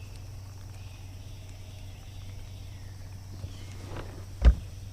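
A single sharp knock against the fishing boat near the end, over a faint steady low hum.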